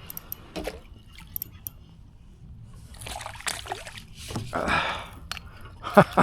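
Water splashing and sloshing at the surface, in two spells about three and four and a half seconds in, with a few light clicks near the start and sharp knocks near the end.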